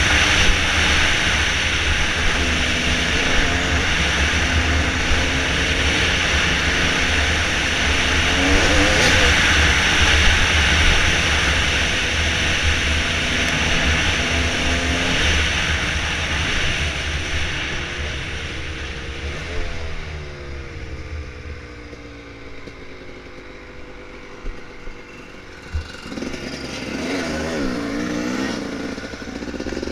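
Dirt bike engine running on a trail ride, its pitch rising and falling with the throttle, under heavy wind rush on the microphone. The wind and the overall level ease after about twenty seconds, leaving the engine clearer, and the revs climb again near the end.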